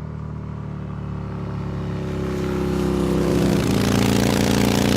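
Motorcycle engine running at a steady pitch, growing steadily louder.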